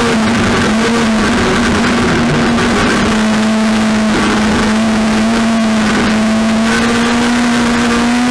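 Race car engine running hard at high revs, its pitch dipping slightly about three seconds in, then climbing slowly.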